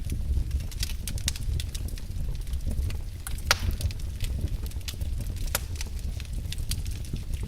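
Wood fire burning in a fireplace: a steady low rumble of the flames with irregular crackles and snaps, one louder pop about halfway through.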